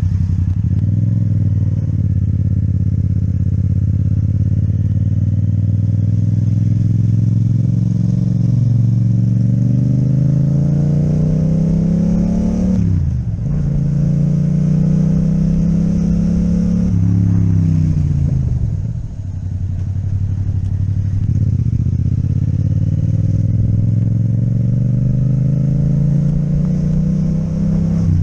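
Yamaha MT-07's parallel-twin engine through an Akrapovic exhaust, under way on the road. Its revs climb slowly, drop sharply at a gear change about 13 seconds in, fall off again around 17 to 19 seconds, then climb once more.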